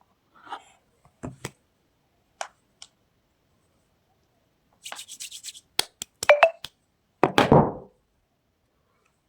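Hands handling soap and its packaging: scattered light taps and knocks, a short rustle about five seconds in, then a few sharp clicks and a heavier crunching thud a little after seven seconds, the loudest sound.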